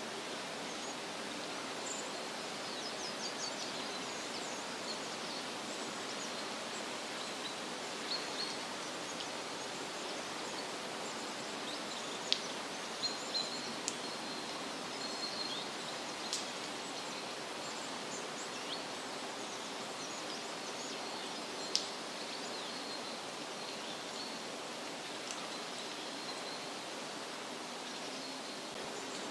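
Forest ambience: a steady rushing hiss of background noise with scattered short, high bird chirps and trills, the sharpest about twelve, sixteen and twenty-two seconds in.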